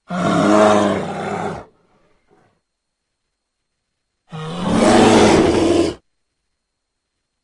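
Two loud, deep roars from a large animal, the first at the start and the second about four seconds in, each lasting under two seconds.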